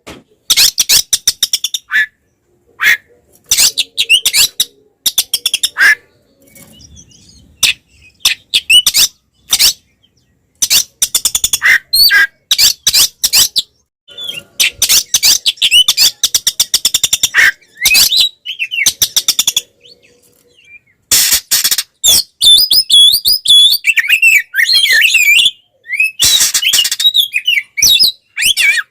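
Oriental magpie-robin (kacer) singing an agitated fighting song: bursts of rapid, harsh clicking and chattering notes mixed with warbled whistles, broken by brief pauses. This is the combative song that keepers play to provoke other male magpie-robins.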